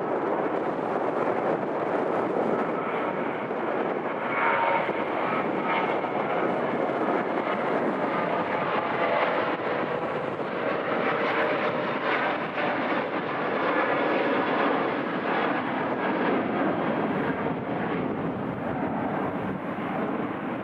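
Airliner jet engines running, a steady, dense noise with faint whining tones that swells slightly now and then.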